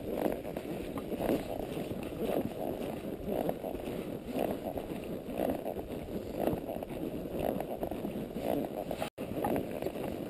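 Quarter Horse walking along a trail, its steps coming in a steady rhythm about once a second, with wind rumbling on the microphone. The audio drops out for an instant near the end.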